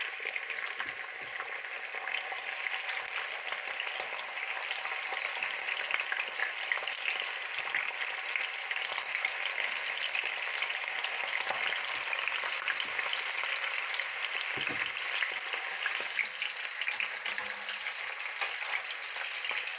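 Slices of lamb testicles sizzling steadily in hot oil in a cast-iron pan.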